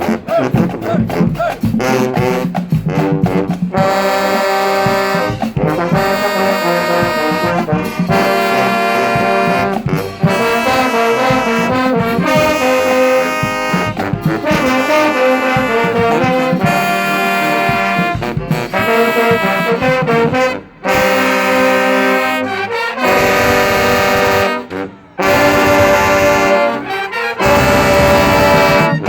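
Marching band playing: a quick run of drum strokes for the first few seconds, then the brass section (trombones and trumpets) comes in with long held chords, phrase by phrase with brief breaks.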